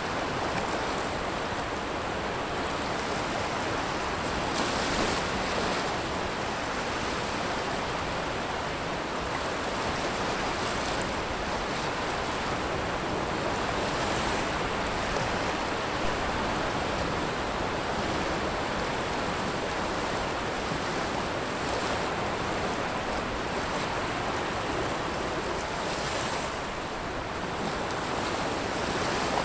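Ocean surf on a pebble beach: a steady wash of breaking waves that swells a little every few seconds.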